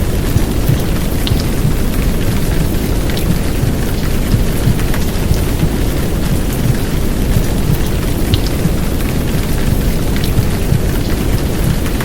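Heavy downpour rain laid over a womb-sound track: a steady rain hiss with scattered drop ticks above a deep, constant low rumble.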